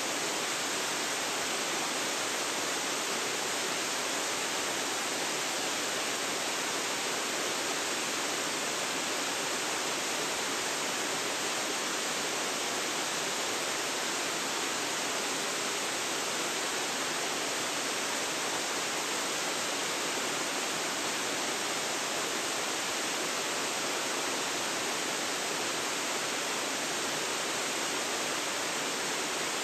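Waterfall, a steady unbroken rush of falling water. It is even throughout, with little deep rumble.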